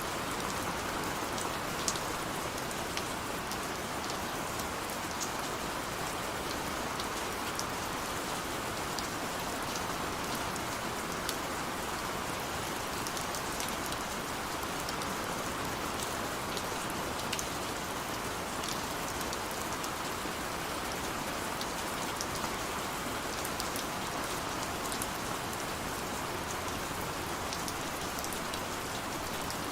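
Steady rain falling on hard surfaces, an even hiss dotted with the ticks of individual drops.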